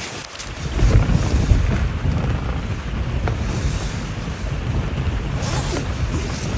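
Strong wind gusting across the microphone, a heavy low buffeting rumble that picks up about a second in, with gusts of higher hiss near the end.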